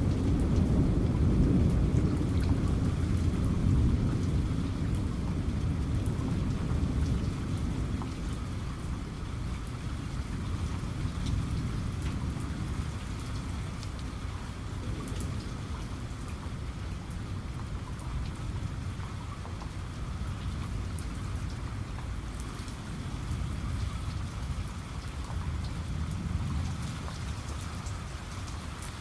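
Steady rain with individual raindrops pattering, under a low rolling rumble of thunder that is loudest at the start and dies away over the first several seconds; a weaker rumble swells again near the end.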